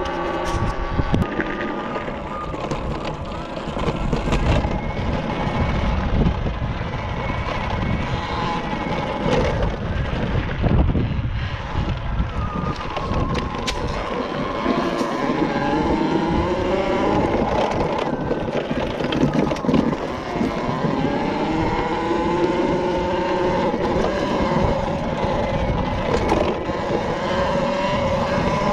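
Talaria Sting electric dirt bike being ridden, its electric motor whining and rising and falling in pitch as the speed changes, over a steady low rumble.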